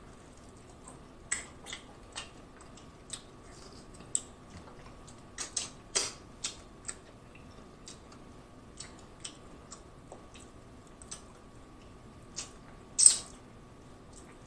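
Close-miked chewing of a mussel from a seafood boil: irregular wet mouth clicks and smacks, with one louder smack near the end.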